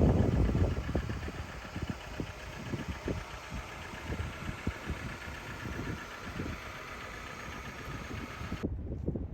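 2013 Mini Cooper Clubvan's engine idling shortly after a cold start. A louder sound dies down over the first second or so into an uneven low idle.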